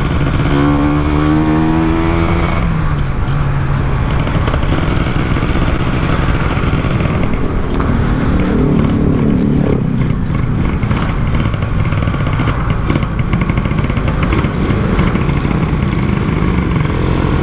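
Two-stroke Kawasaki Ninja 150 single-cylinder engine in a Yamaha RX-King motorcycle, ridden on the road and loud throughout. It revs up twice, the pitch rising for about two seconds near the start and again around the middle, then dropping.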